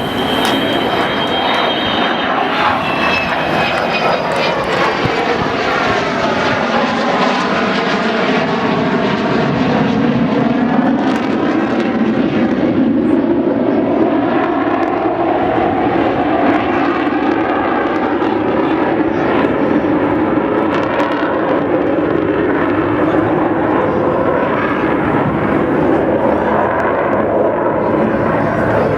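Avro Vulcan's four Rolls-Royce Olympus jet engines at high power on a low pass, a loud jet roar with tones gliding in pitch as it goes by. The high end thins out over the latter half as the bomber draws away.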